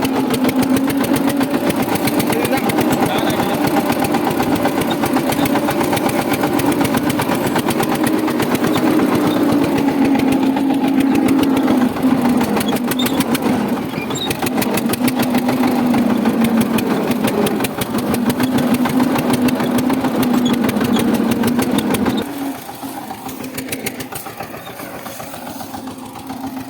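Tractor engine running steadily with a dense, even firing chatter, dropping noticeably quieter about four seconds before the end.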